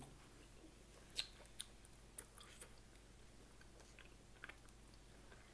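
Faint chewing of food, heard as a few soft, scattered mouth clicks.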